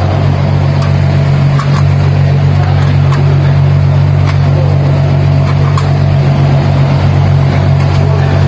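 Ferrari F8 Tributo's twin-turbo V8 running steadily with no revving, through its newly fitted modified exhaust and silencer, a deep even drone. A few faint clicks sound over it.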